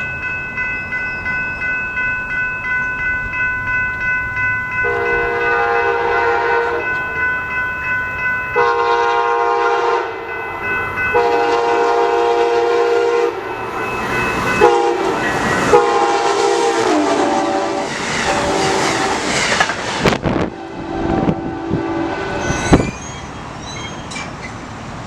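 Amtrak Cascades passenger train sounding its horn in several long blasts as it approaches a crossing, the chord dropping in pitch as it passes. The train then rushes by with wheel clatter and sharp knocks. Steady ringing, typical of grade-crossing bells, runs underneath.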